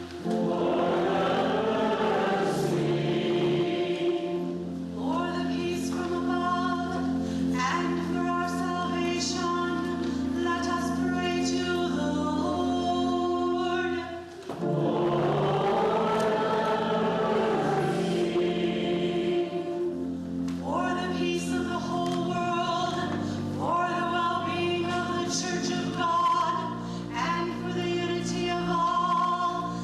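Many voices singing a hymn together over held instrumental notes, pausing briefly about halfway through before the next phrase.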